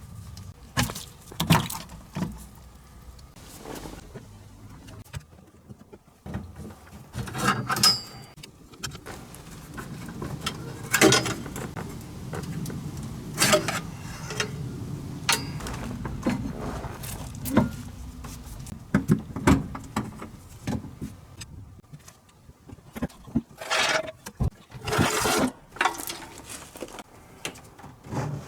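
Irregular clinks and knocks of hand tools and metal parts being handled during work on a car.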